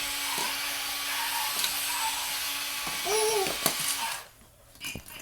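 Small electric motor whirring steadily under load as a toy-size tow truck pulls a 10-pound dog crate at full power, then cutting off just after four seconds. A short rising-and-falling vocal sound comes about three seconds in.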